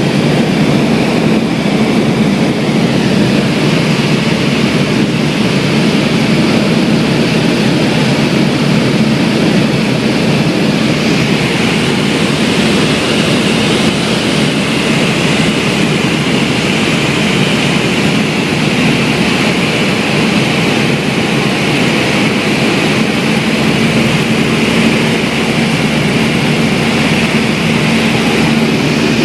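Cessna 172 single-engine piston airplane in flight: its engine and propeller drone steadily and loudly, heard from inside the cabin.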